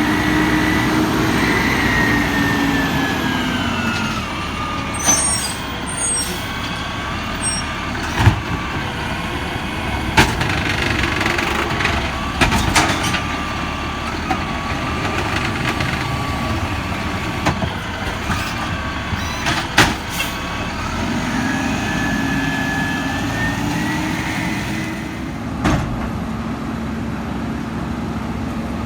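Garbage truck engine running under load, its pitch sinking over the first few seconds, holding steady, then rising again near the end. Sharp knocks and clanks come every few seconds.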